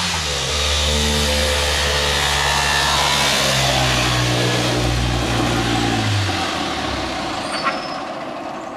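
Historic rally car engine running loud at high revs. Its note steps once about four and a half seconds in, then falls away and fades as the car moves off.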